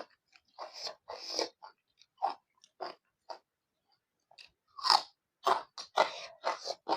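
Close-miked chewing of fried pork and rice: irregular wet, crunchy bites and smacks, sparse at first, with a brief pause past the middle, then quicker and louder in the last few seconds.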